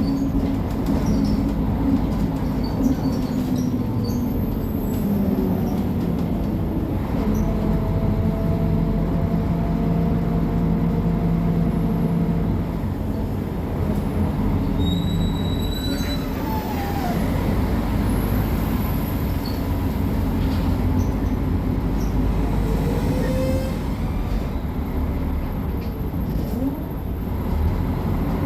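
Mercedes-Benz O500MA BlueTec 5 articulated bus's diesel engine running under way, driving through its ZF Ecomat 6HP-604C automatic gearbox: a steady low drone whose pitch shifts several times, with faint higher whines over it.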